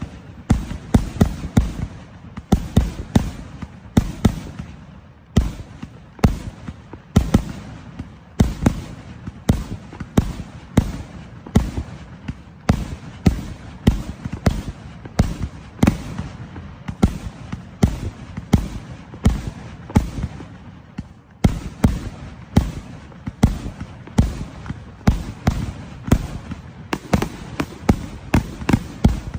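Consumer fireworks going off in a rapid, irregular series of booms and bangs, often several a second, each followed by a short ringing tail.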